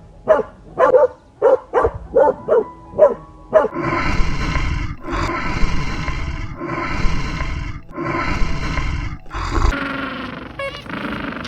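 A dog barking rapidly, about two short barks a second. A few seconds in, it gives way to four loud, rough, roar-like calls of about a second each, with short pauses between them, from a larger animal.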